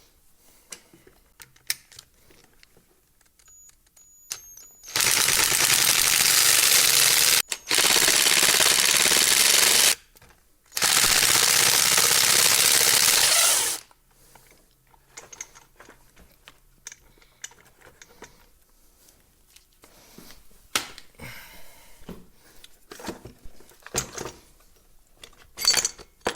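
Cordless impact driver hammering screws out in three bursts of two to three seconds each, with faint clicks and handling noise between and after them.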